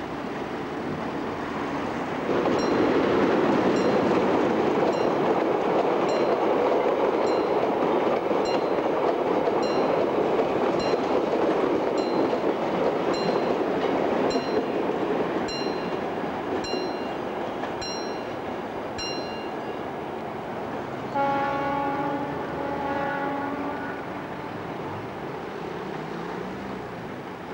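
Diesel-hauled freight train rolling past with a steady rumble and light, regular clicking of wheels over the rails, about one or two clicks a second. About 21 s in, a train horn sounds once for about two and a half seconds.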